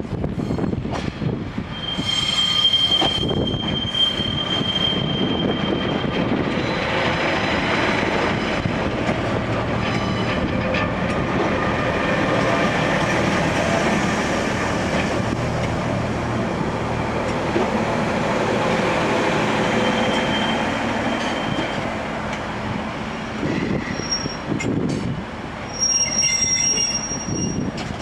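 A train moving on the rails with steel wheels squealing. There is a high, steady squeal about two seconds in, and shorter, higher-pitched squeals near the end over the continuous rumble of the train.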